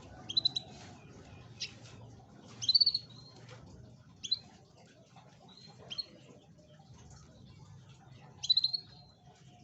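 Canary calling in short, sharp chirps and brief trills, six of them spaced a second or two apart, the loudest about three seconds in and near the end, over a faint low hum.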